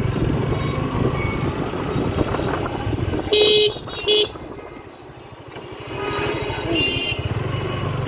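Street traffic heard from a moving motorcycle: a steady low engine and road rumble, with two short, loud horn honks about three and a half seconds in, the first a little longer. The rumble dips for a moment after the honks, then returns.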